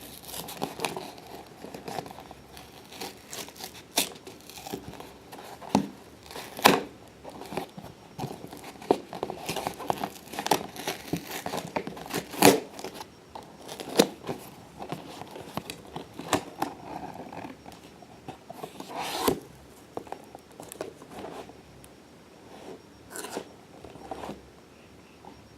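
Hands scratching, tapping and crinkling a soft-sided faux-leather cat carrier: irregular crinkles and scrapes with a few sharper snaps.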